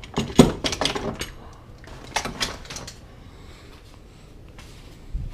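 Knocks and clatter of gear being handled, in two short bursts in the first three seconds, then a single low thump near the end.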